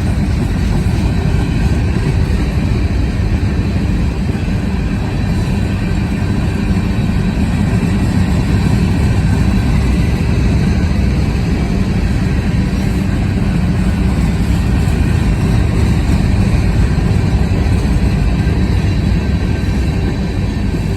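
Freight train cars rolling past close by: a steady rumble of steel wheels on rail.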